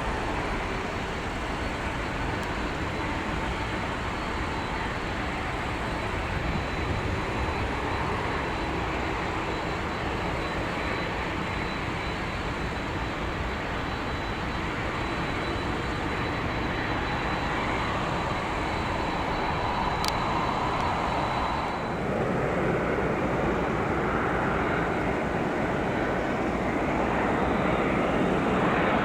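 Jet engines of a departing Boeing 747-400F freighter, a steady jet rumble. About three-quarters of the way in it gives way abruptly to a Boeing 767-300F freighter's jet engines on approach to land, growing louder.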